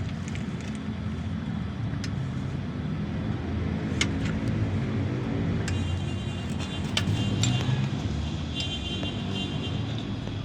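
A vehicle engine idling steadily, with several sharp clicks or taps at intervals and brief high tones in the second half.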